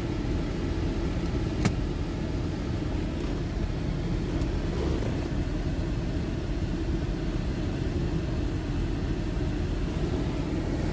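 Steady low rumble of a truck's running engine and air-conditioning blower, heard inside the cab, with one sharp click about a second and a half in.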